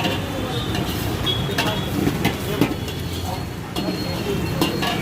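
Metal spatula clinking against a wok several times at an irregular pace, over a steady rumble of street traffic.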